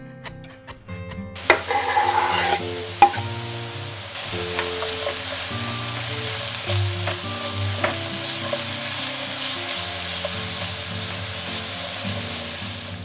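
Chopped red onion, garlic and ginger sizzling in olive oil in a stainless steel sauté pan while being stirred with a spatula. The sizzle sets in about a second and a half in, with a couple of knocks of the spatula against the pan early on, then holds steady.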